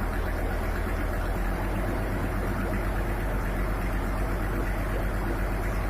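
Diesel engine of a 27.5 kVA generator set running steadily, a constant low drone.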